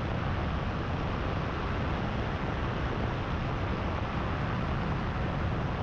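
Paramotor engine and propeller running steadily in cruise flight: an even, unbroken drone with a haze of rushing air over it.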